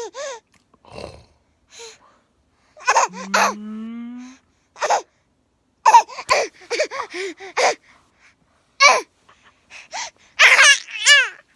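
A baby laughing in short, high-pitched squeals and gasping breaths, burst after burst, with the loudest squeals near the end. A lower voice rises briefly in pitch about three seconds in.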